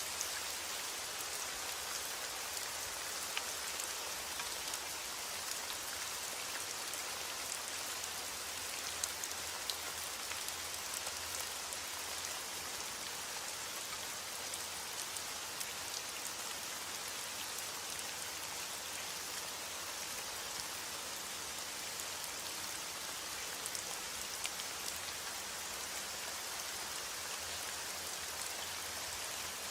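Steady heavy rain falling, with many small individual drops ticking sharply against a surface over the continuous hiss.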